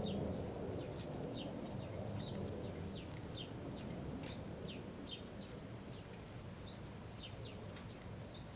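A small bird chirping over and over, short falling chirps about two or three a second, over a low background rumble that slowly fades.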